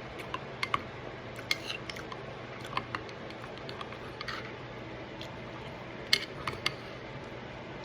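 Spoon clinking and scraping against a dish in scattered light taps while eating, over a steady low hum.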